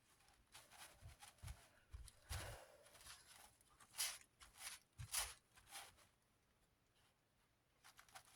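Faint, irregular rubbing and handling noises from cleaning a plastic fan blade by hand, with the two loudest strokes about four and five seconds in, then near quiet for the last couple of seconds.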